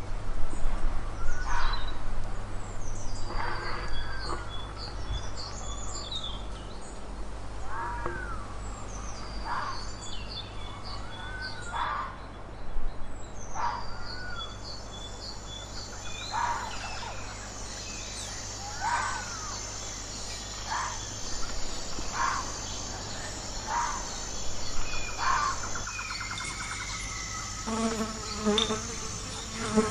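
Outdoor animal sound-effect ambience: short calls that rise and fall in pitch, repeating every one to two seconds, with a high, steady insect trill joining about halfway through over a low steady hum.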